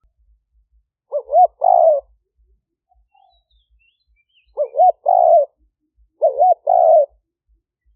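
Spotted dove cooing three phrases, each two short notes followed by a longer rolling coo, the song used to lure wild doves to a decoy. Faint high chirps of small birds come between the phrases.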